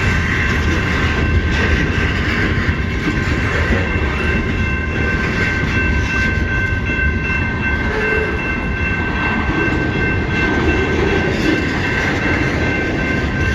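CN freight train's cars rolling past, a steady rumble with thin, high, steady tones running above it.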